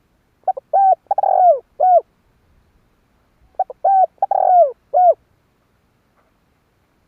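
Spotted dove cooing: two phrases of several short, falling coos with a longer, rougher note in the middle, the second phrase starting about three seconds after the first.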